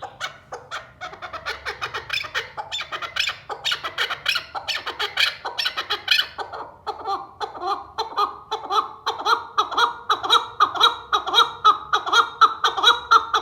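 A male chukar partridge calls in a rapid run of repeated chuck notes. The calls are jumbled at first, then about halfway through settle into a steady beat of about three a second and grow louder.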